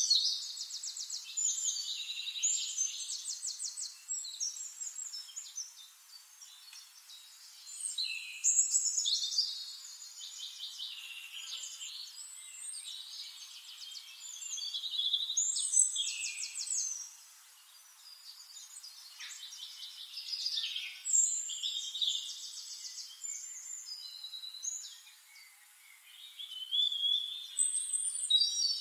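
Songbirds singing: high-pitched phrases and fast trills that come in loud bouts about every six or seven seconds, with quieter calls in between.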